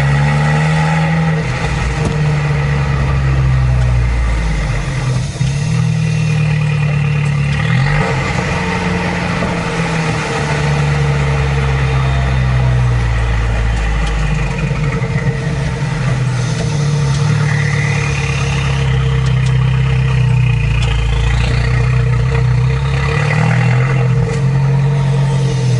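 Abarth 595 Competizione's turbocharged four-cylinder engine with its Record Monza exhaust, running under way, its note rising and falling several times over a steady low drone.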